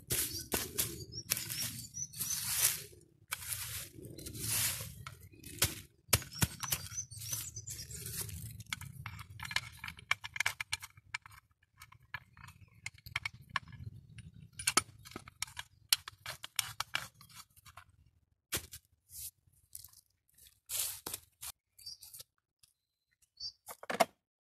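Aluminium foil crinkling and rustling, with small irregular clicks and crunches, as baked fish is picked out of the foil and eaten. The sounds come thick for most of the time and thin out to scattered clicks in the last few seconds.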